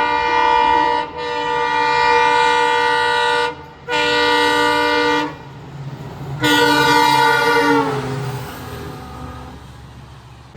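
Indian Railways locomotive horn sounding four loud blasts. The first is short, the next two are longer, and the last sags in pitch as it dies away, all over the low rumble of a train on the move.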